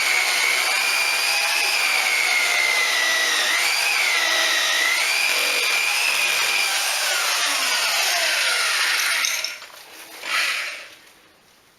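Electric drill boring into the house wall, running hard with a wavering whine. Its pitch falls as the motor spins down and stops at about nine seconds, and a short burst of running follows near ten and a half seconds.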